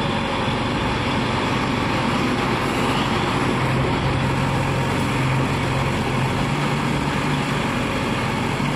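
Heavy diesel engine running steadily under a constant low drone, with no change in speed.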